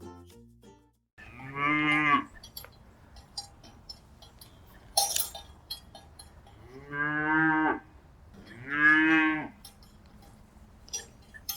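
A cow mooing three times: one moo about a second in, then two more close together near seven and nine seconds, each ending with a falling pitch. A short sharp clatter comes between them, about five seconds in.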